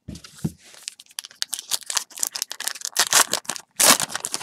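Trading cards and a foil pack wrapper being handled at close range: a quick run of rustling, crinkling and card-sliding scrapes, loudest about three and four seconds in.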